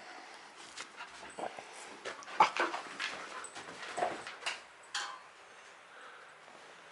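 Small dog giving short whimpers and yips among scuffling clicks as it bites and worries the spider, loudest about two and a half seconds in, then fading near the end.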